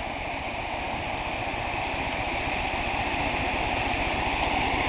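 Steady rush of flowing stream water, growing slowly louder.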